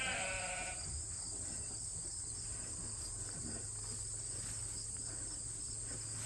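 Steady high-pitched chirring of insects in summer, with a low hum under it. A sheep's bleat fades out in the first second, and another bleat starts at the very end.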